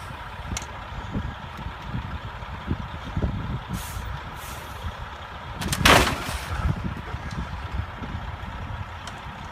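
Vehicle running on the road, picked up by a dashcam: a steady low rumble with uneven knocks, and a short sharp hiss about six seconds in.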